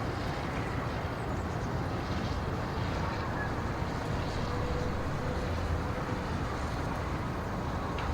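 Steady outdoor ambience: an even, low rumbling noise with a faint thin tone about halfway through.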